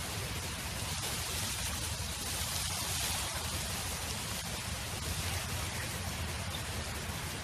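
Steady wind noise: an even hiss with a low rumble underneath, swelling slightly about three seconds in.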